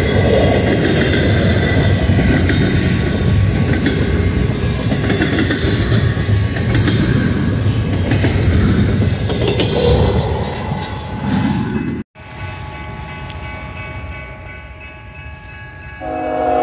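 Double-stack intermodal freight train rolling past, with steady wheel-and-rail rumble and clatter of its well cars. After a sudden cut, the sound is quieter; near the end an approaching BNSF grain train's locomotive air horn starts blowing, several notes sounding together as one chord.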